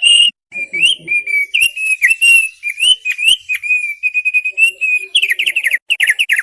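Opior paruh tebal (thick-billed white-eye) singing: a loud, fast, varied run of whistled notes with quick up-and-down slides, ending about five seconds in with a rapid series of short falling notes.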